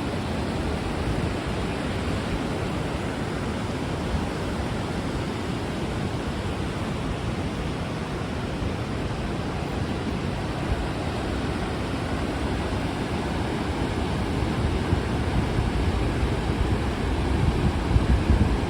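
Steady rushing of the River Wharfe's waterfall, with wind buffeting the microphone near the end.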